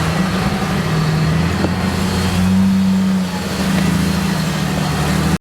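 An off-road vehicle's engine running steadily, revving up briefly about two and a half seconds in and settling back a second later, under a steady hiss.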